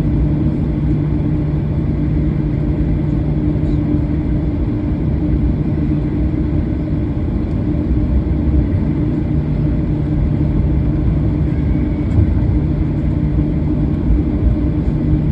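Cabin noise of a Boeing 737-800 on the ground: its CFM56-7B engines run at low power under a steady low rumble with a constant hum. It is typical of taxiing before takeoff.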